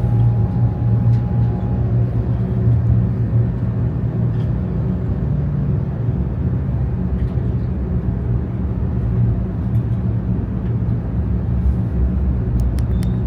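Shinkansen bullet train running, heard inside the passenger cabin: a steady low rumble with even running noise. A faint high tone dies away about two seconds in, and a few light clicks come near the end.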